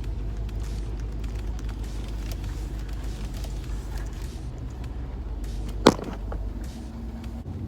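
Vehicle engine idling with a steady low hum, and one sharp knock about six seconds in.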